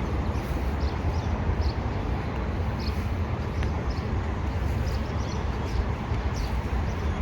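Outdoor ambience: a steady low rumble with short high chirps scattered through it.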